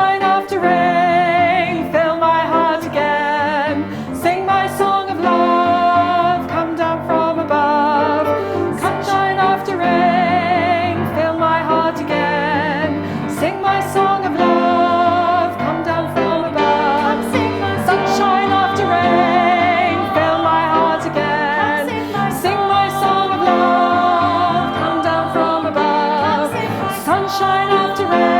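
A small group of singers performing a song, several voices sounding together with vibrato on the held notes.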